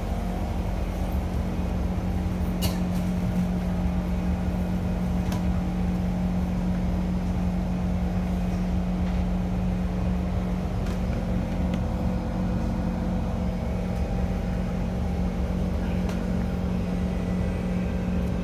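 Steady low hum and rumble inside a Kawasaki C151 electric train standing at a platform with its doors open, with a few faint clicks.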